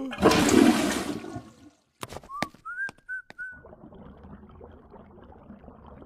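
Cartoon sound effects: a loud rushing noise lasting about a second and a half, then a few sharp clicks with short whistle-like chirps, then a faint steady wash of noise.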